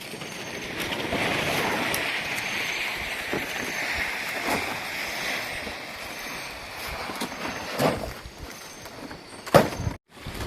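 Strong wind gusting through forest trees: a loud, steady rushing of leaves that swells over the first seconds and then eases. A couple of sharp knocks sound near the end.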